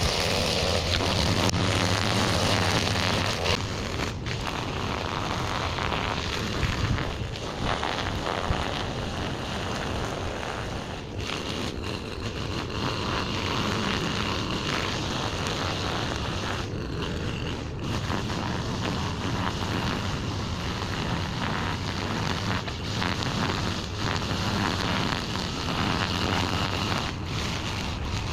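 Small gasoline engine of a yard-work tool running steadily under load, with a few brief dips.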